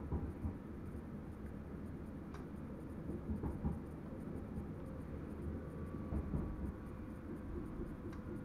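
Driver's-cab sound of an NS Sprinter Lighttrain electric train running on track: a steady low rumble with uneven bumps, two sharp clicks, and a faint steady tone joining about six seconds in.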